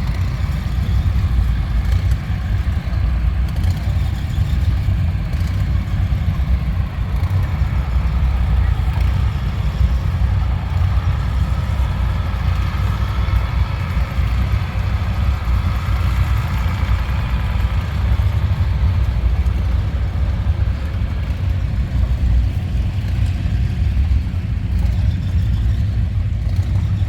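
An engine running steadily at idle, a constant low rumble.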